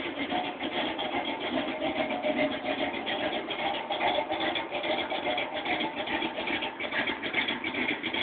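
1979 Chevrolet Camaro's engine idling steadily, with a rapid, even exhaust beat.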